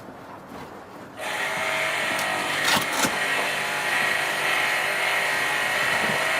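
A motor-driven machine starts up about a second in and runs steadily at a constant pitch, with a couple of knocks partway through.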